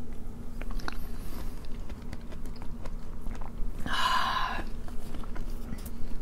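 Close-miked chewing and small wet mouth clicks of people eating spoonfuls of Indian curry, with a short breathy sound about four seconds in.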